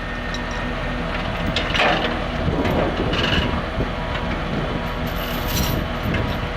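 An engine idling steadily, with several metallic clanks and knocks over it, the clearest about two seconds in and again near the end.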